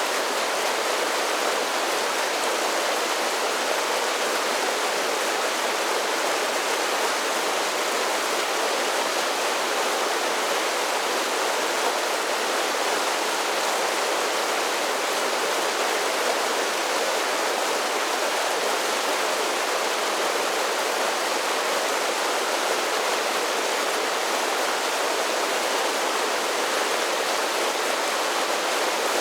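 A mountain creek tumbling down a series of small waterfalls, a steady, unchanging rush of water with little deep rumble.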